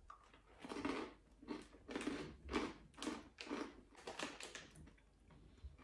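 A person chewing a crunchy cheese-filled snack close to the microphone: a run of crunching bites, about two a second, that fade out over a few seconds.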